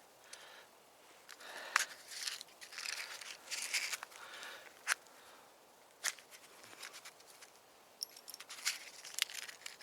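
Matches being struck again and again against the box, a series of short, sharp scratches at irregular intervals, failing to catch in damp conditions.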